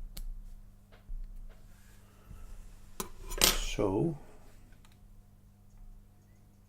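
Small metal lock pins and tweezers clicking against a pinning tray: a few light single clicks, then a louder clinking clatter about three seconds in.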